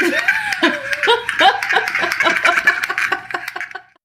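A person laughing, a rapid run of ha-ha pulses that cuts off abruptly near the end.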